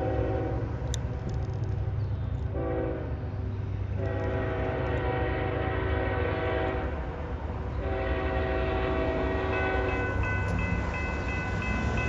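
Diesel locomotive air horn sounding several blasts of differing length, a short one and then two longer ones, over the steady low rumble of the passing train's locomotives.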